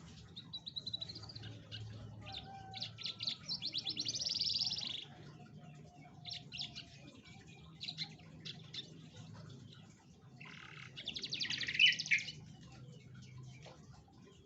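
Domestic canary singing: two long, very fast trills, one about two and a half seconds in and a louder one near the end, with short chirps scattered between.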